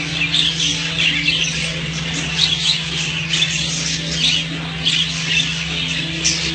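Many small cage birds calling at once, a dense chatter of short, overlapping squawks and chirps, over a steady low hum.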